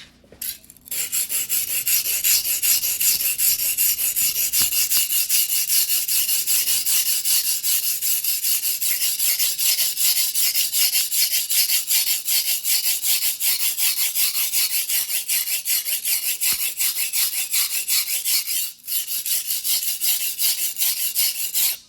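Steel blade of a single-bevel fuguhiki sashimi knife being stroked back and forth by hand on a wet whetstone: a steady, rapid scraping of several strokes a second, with a brief break near the end.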